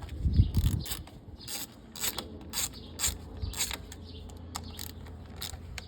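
Hand socket ratchet clicking as bolts are backed out of a lawnmower engine, a string of short sharp clicks about two a second, with a low knock just after the start.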